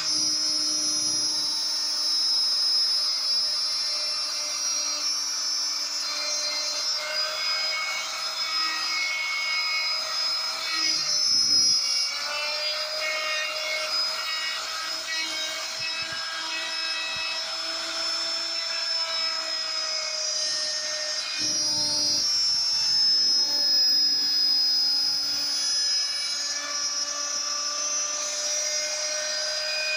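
Small high-speed power tool carving wood, a steady whine with the grinding rasp of the cutter on wood. Its pitch sags and recovers under load, with heavier cutting about 11 seconds in and again about 21 seconds in.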